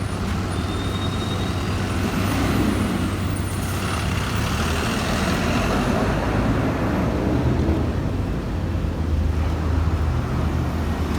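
City bus traffic on a busy avenue: a low, steady engine hum under road noise that swells as vehicles pass.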